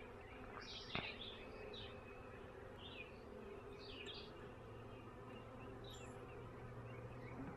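Honey bee swarm buzzing: a faint, constant hum from bees clustered in and around a newly hived box. A few short high chirps sound over it.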